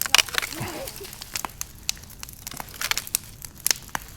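Large bonfire of brush and stumps crackling, with irregular sharp pops.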